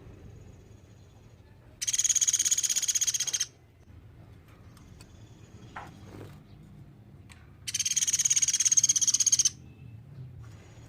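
Platuk beras woodpecker giving two loud, rapid, high trills, each under two seconds long and about six seconds apart, with faint thin calls between them.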